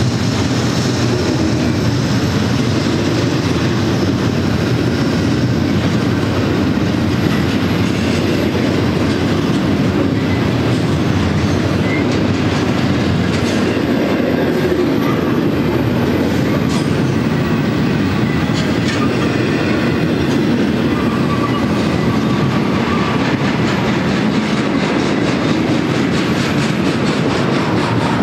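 Double-stack container train's well cars rolling past at close range: a steady rumble of steel wheels on the rails with a rhythmic clickety-clack.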